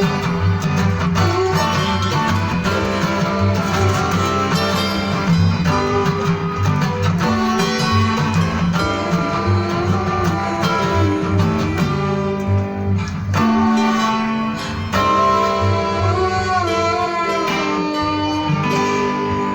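Instrumental passage of an acoustic band song with no singing: plucked acoustic guitar over a steady bass line.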